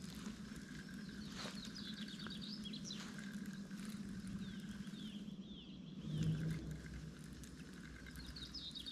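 A songbird singing short repeated phrases of high chirps and falling notes, with a soft thump about six seconds in.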